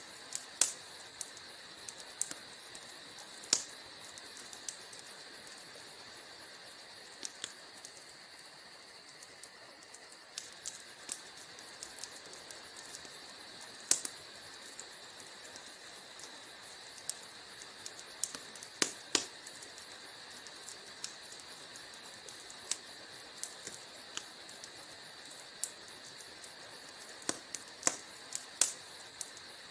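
Wood fire crackling in a fireplace: irregular sharp pops and snaps of burning logs over a steady soft hiss, with a few louder pops about halfway through and a cluster near the end.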